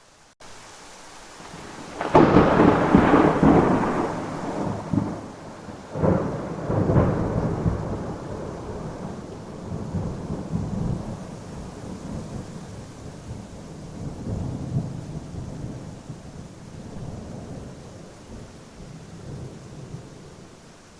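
Thunderstorm with steady rain: a loud thunderclap about two seconds in, a second peal about four seconds later, then long rolling thunder slowly fading away under the rain.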